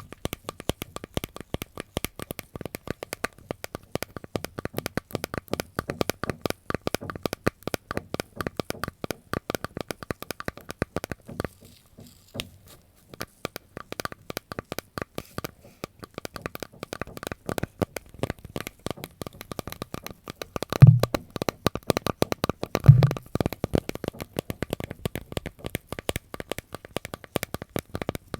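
Dense, rapid crisp crackling and tapping from close-up ASMR trigger handling. It thins out briefly a little before the middle. Later come two dull low thumps about two seconds apart.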